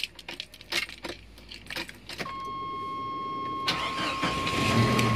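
Bunch of keys jangling as the key is put into the ignition of an Opel Blazer. About two seconds in, a steady high electronic tone comes on. Near the end the engine cranks and starts, settling into a steady idle.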